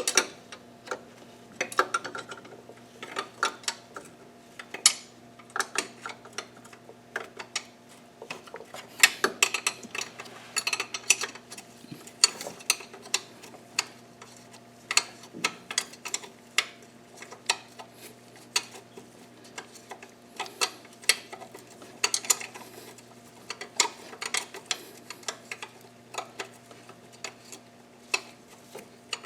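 Irregular metallic clicks and clinks of a wrench and metal parts while intake bolts are fitted on an engine, over a faint steady hum.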